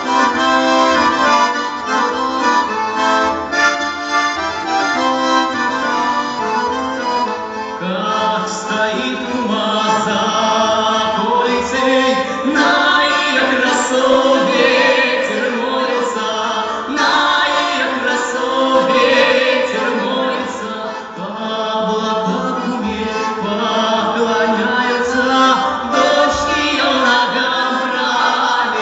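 Accordion playing a melody.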